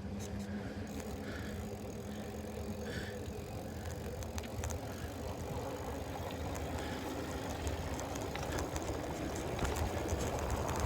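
Bicycle being ridden, heard from a phone mounted on the bike: a steady low rumble of tyres rolling over the path, with scattered small clicks and rattles from the bike and its phone holder.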